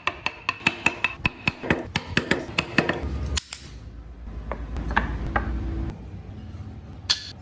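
Quick, regular hammering on wood, about five blows a second, which stops about three seconds in. After that come a low rumble and a few lighter taps.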